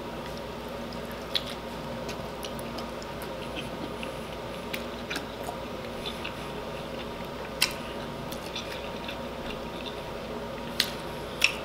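Faint chewing of sauce-soaked rotisserie chicken, with scattered small wet clicks from the mouth and sauce over a low steady hum.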